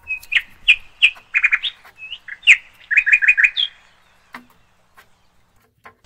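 A bird chirping: a quick run of varied chirps and short trills that stops a little under four seconds in.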